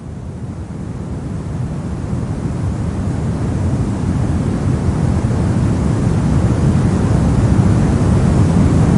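Steady soft noise, weighted toward the deep, rumbling end, fading in and growing gradually louder.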